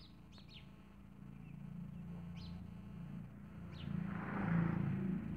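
A bird giving a handful of short chirps, each sliding down in pitch, spaced irregularly. Underneath runs a low steady hum that swells and is loudest about four and a half seconds in.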